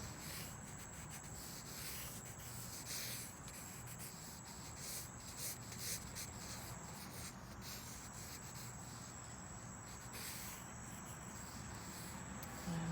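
Scratchy sketching strokes on paper, irregular and quick, over a steady high-pitched drone of crickets and cicadas.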